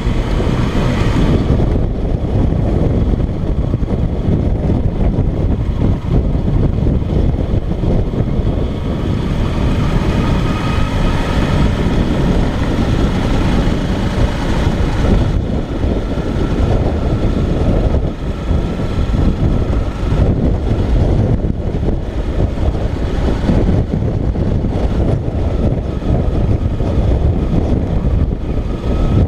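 Motorcycle underway: heavy wind buffeting on the camera microphone over the engine running steadily.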